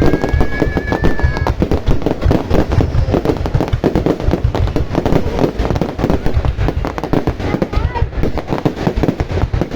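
Fireworks going off in a dense, continuous barrage of rapid bangs and crackling, with a couple of whistling shells rising in pitch in the first second or so.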